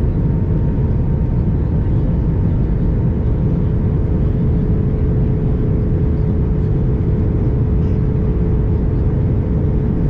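Airbus A321 cabin noise in flight: a steady, deep rush of airflow and jet engine noise with a constant hum running through it.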